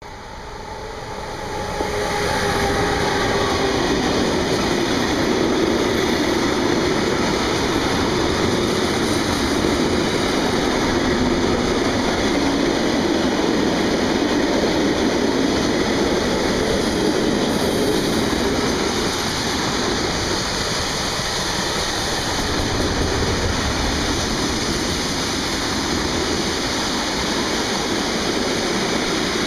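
Freight train passing close by, its wagons rolling past in a steady, loud rumble; the sound swells up over the first two seconds.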